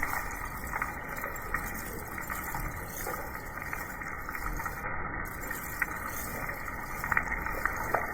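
Steady rainfall with scattered sharper drop hits, a few louder ones near the end.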